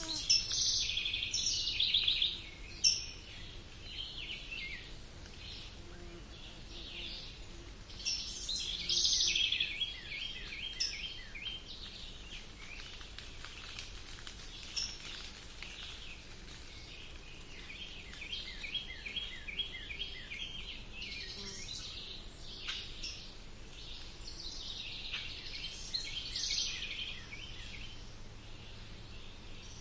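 Several birds singing and calling in chirps and rapid trills, with louder song phrases near the start and about eight seconds in, over a faint steady background hiss.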